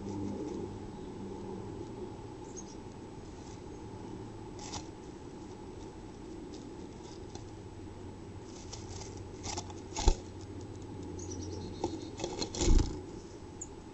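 A chickadee moving about inside a wooden nest box, with scattered scratches and rustles in the nest lining. Two loud knocks come about ten and thirteen seconds in, over a steady low hum.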